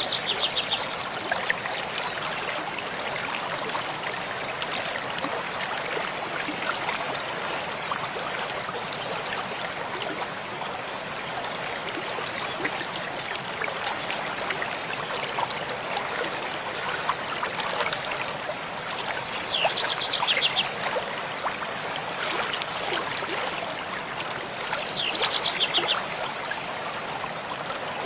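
Mountain stream flowing steadily, with a songbird's short song of fast repeated high notes heard three times: at the start, about two-thirds of the way through and near the end.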